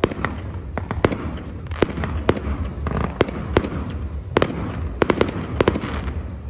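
Fireworks going off: an irregular run of a dozen or more sharp bangs, some in quick pairs, over a steady low rumble.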